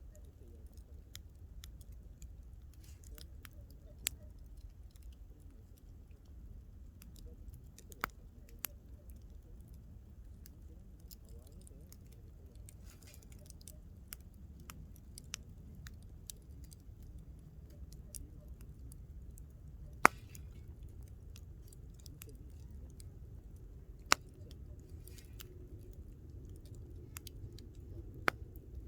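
Wood campfire crackling: scattered sharp pops with a few louder snaps, the loudest about 20 s in, over a low steady rumble.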